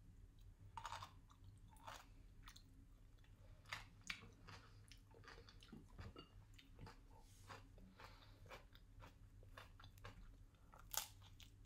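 Close-miked chewing of a mouthful of radish kimchi: faint, irregular crunches and small mouth clicks, with a sharper crunch near the end.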